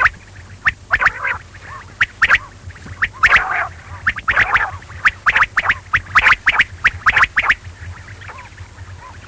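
Quail calling: a rapid series of short, sharp calls, densest in the middle and thinning out near the end, over a low steady hum.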